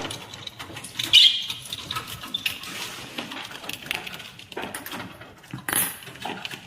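A bird's light clicks and scuffles, with a short high chirp about a second in and brief hissy rustles near the end.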